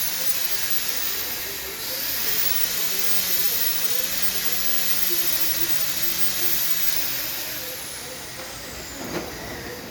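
Steady rain falling, an even hiss with no let-up. A faint low hum underneath stops about seven seconds in.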